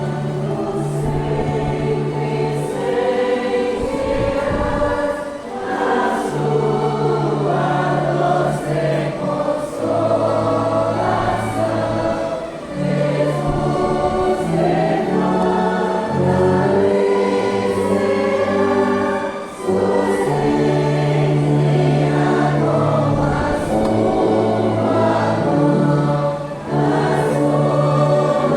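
A congregation singing a hymn together in many voices with orchestral accompaniment, sustained bass notes moving step by step beneath the melody, with brief pauses between phrases.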